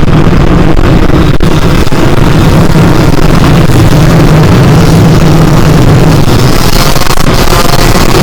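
Yamaha YZ125 two-stroke motocross engine running at steady revs under way, very loud and close on the bike-mounted camera's microphone.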